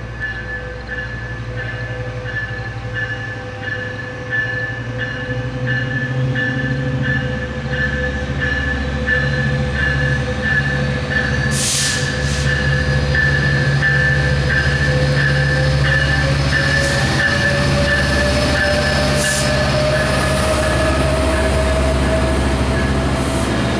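A Metrolink commuter train pulling out, with a steady low rumble and a hum whose pitch rises slowly from about halfway through as it gathers speed. A high tone pulses about twice a second throughout, and there are two short hisses near the middle.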